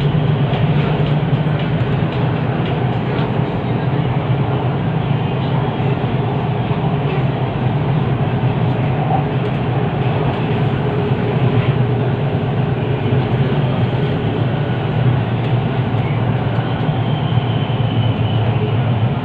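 Steady running noise inside an MRT train carriage on the Kajang line between stations: an even, low rumble of the train in motion.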